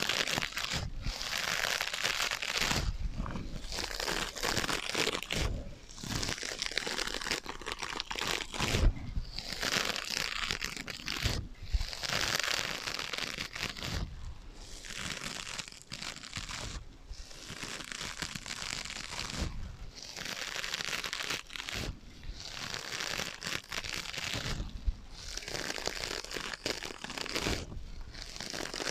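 Scratching on foam sponges, a rough crinkly rasp in repeated strokes of a second or two with short pauses between them, played with an echo effect.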